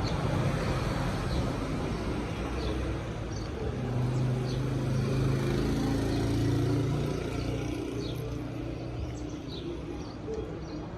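Road traffic background noise, with a motor vehicle's engine hum swelling and fading about four to seven seconds in, and faint short chirps over it.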